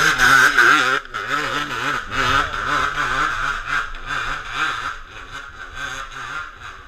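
Honda CR250 two-stroke dirt bike engine revving hard under load on a hillclimb, the pitch rising and falling rapidly as the throttle works. It is loudest in the first second and grows fainter toward the end.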